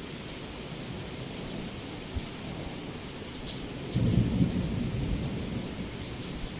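Heavy rain pouring steadily against a window, with a few sharp drop ticks. A short low rumble of thunder swells about four seconds in and fades away.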